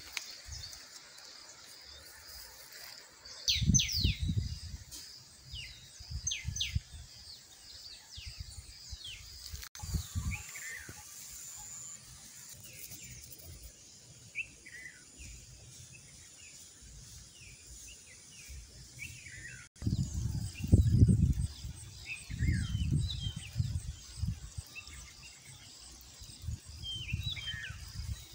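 Small birds chirping, with many short, quick calls that slide downward in pitch, over a high pulsing insect trill. Low gusts of wind buffet the microphone at times, loudest a little after the middle.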